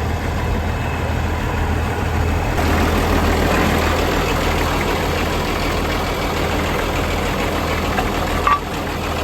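Tractor engine running steadily at a low idle, growing a little louder and fuller about three seconds in, with a short sharp knock near the end.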